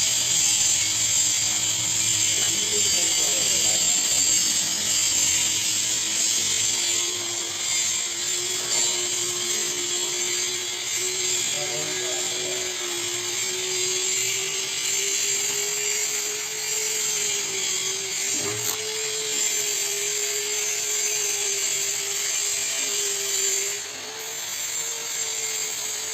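Electric drywall sander running steadily: a motor hum whose pitch drifts slowly upward, over a loud, steady high hiss. The sound drops a little in level near the end.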